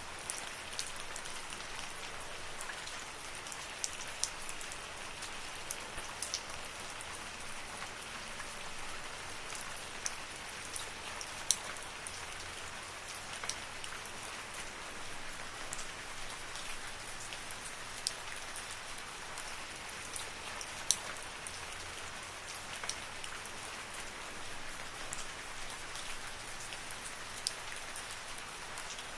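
Steady rain in a forest: an even hiss with scattered sharp, close drops ticking now and then.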